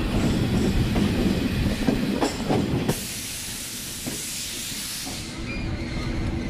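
Passenger train standing at a station platform: a low rumble with scattered knocks, then from about three seconds in a sharp hiss lasting about two seconds.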